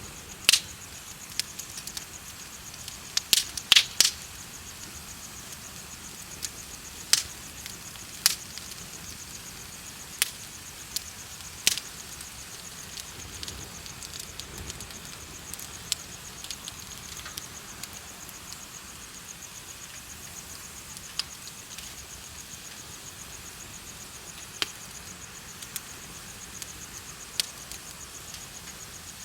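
Bonfire crackling with sharp, irregular pops, several close together in the first dozen seconds and sparser after that. Under it runs a steady, high, rapidly pulsing chirping of insects.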